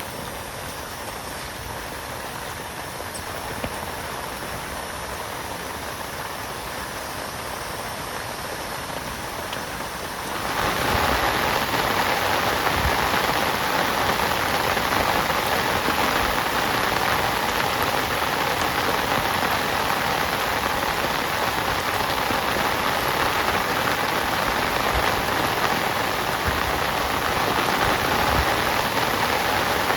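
Heavy rain falling steadily, turning abruptly louder about ten seconds in.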